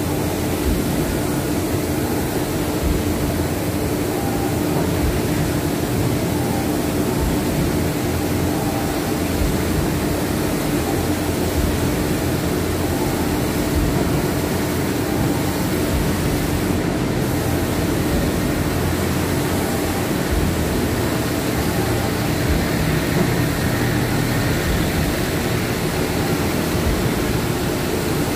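Steady mechanical drone with a constant low hum and even noise, unchanging, from machinery running.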